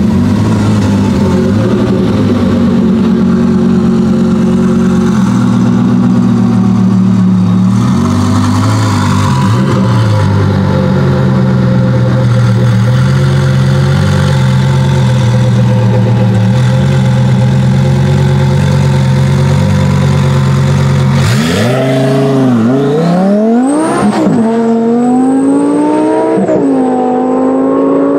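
Twin-turbo Audi R8 GT V10 idling with a steady deep note, then, about 21 s in, launching hard: its revs climb steeply through several quick upshifts as it pulls away.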